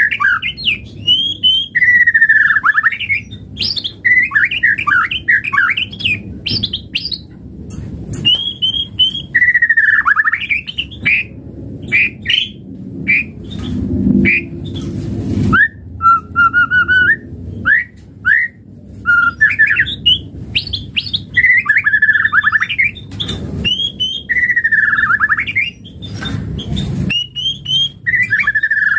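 White-rumped shama (murai batu) singing a continuous run of varied phrases: down-slurred whistles, quick trills and short noisy notes, with only brief breaks.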